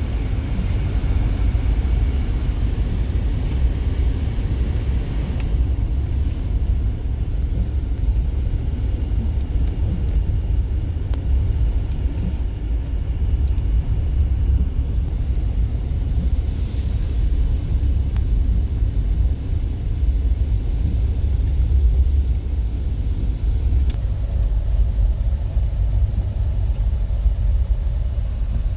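Steady low rumble of a Jeep driving, heard from inside the cabin.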